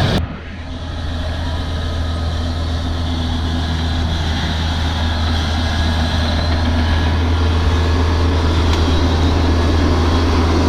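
Kubota DC-70 combine harvester's diesel engine running steadily with a deep, even hum. Just after the start the sound drops abruptly, then grows back louder over a couple of seconds and holds steady.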